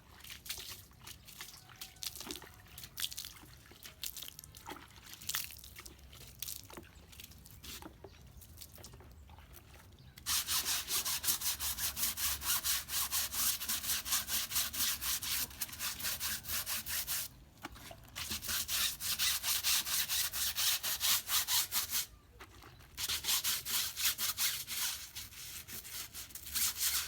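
Old car tyre being scrubbed clean: quiet handling knocks at first, then from about ten seconds in, loud rapid back-and-forth scrubbing strokes with two short pauses.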